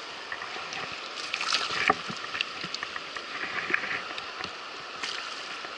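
Rushing river water, a steady hiss, with scattered sharp clicks and knocks on top, the loudest a little under two seconds in.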